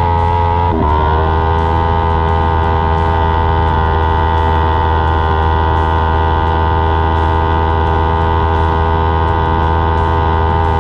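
Micro sprint race car's engine running hard at high, steady revs. The revs dip sharply about a second in, then hold steady.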